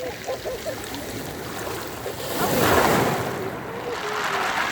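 Sea surf breaking and washing over a pebble beach in rough weather, with one wave surging louder about two seconds in and another building near the end; wind buffets the microphone.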